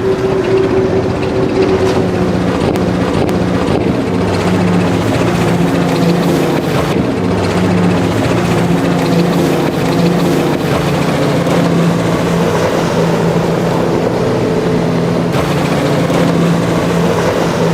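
Motorboat engine running steadily at speed, a continuous drone over the rush of water and wind.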